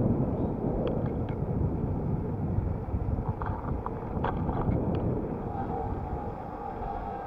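Wind buffeting the microphone and rumbling road noise while riding an electric bicycle, with a few light clicks and rattles. A faint steady whine comes in past the middle.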